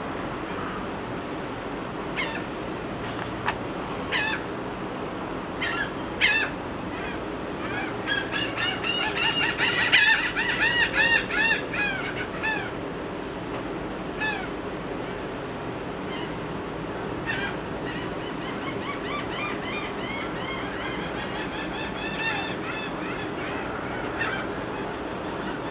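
Birds calling at daybreak: a few single calls, then two long runs of rapid, nasal, honking calls, loudest about ten seconds in, over a steady background noise.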